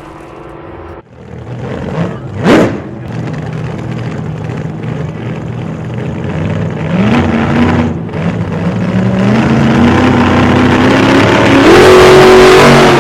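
A vehicle engine accelerating, its pitch climbing in steps and getting louder toward the end, with a brief whoosh about two and a half seconds in.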